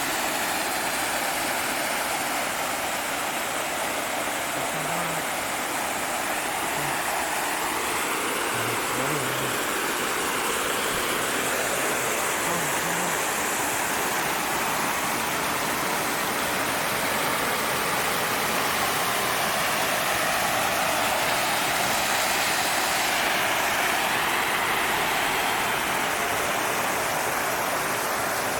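Small waterfall spilling into a pool, a steady, even rush of falling water.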